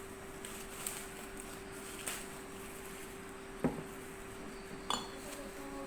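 A few light knocks and clicks, four in all, the loudest about two-thirds of the way in, over a steady hum.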